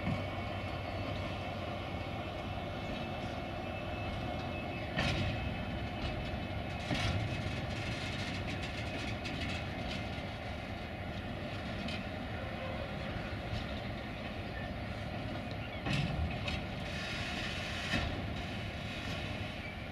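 Freight train rolling slowly past behind a Siemens ER20 Hercules diesel-electric locomotive, the engine running steadily under the rumble of the wagons. Sharp clicks come now and then as the wheels cross rail joints.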